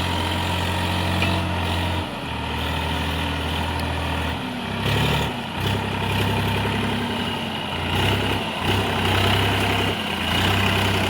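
Massey Ferguson 7250 DI tractor's diesel engine running under a heavy trailer load. Its low note repeatedly drops and picks up again, as if the tractor is straining.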